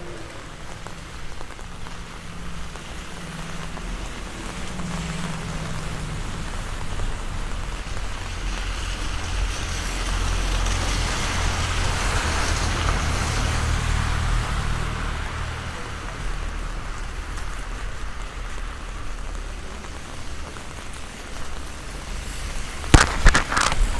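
Heavy rain pouring steadily, with wind rumbling on the microphone. The rain swells louder for several seconds in the middle and eases again. A few sharp knocks come near the end.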